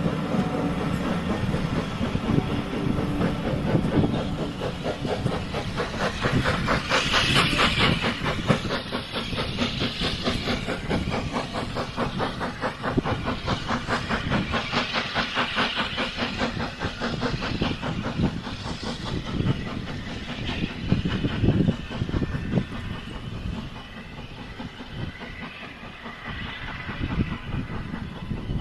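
Heritage train running past, with a fast rhythmic clatter and several bursts of hissing, the sound easing off over the last few seconds.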